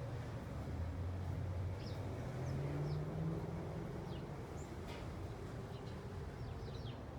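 Small birds giving short, high chirps here and there over a low engine hum of distant traffic that rises in pitch for a moment a couple of seconds in.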